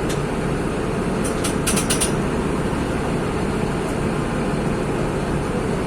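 Mercedes-Benz OF-1724 bus's OM-926 LA six-cylinder turbodiesel running steadily. A few light clicks come about one and a half to two seconds in.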